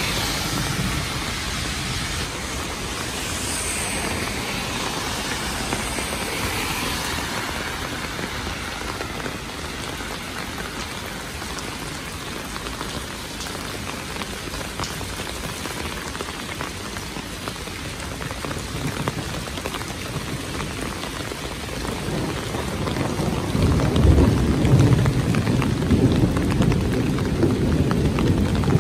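Steady heavy rain hissing on wet pavement and road. Near the end a low rumble swells up and grows louder.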